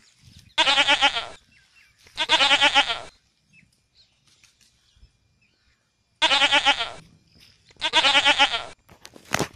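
Goat bleating: four wavering bleats, each under a second long, in two pairs a few seconds apart. A sharp click follows near the end.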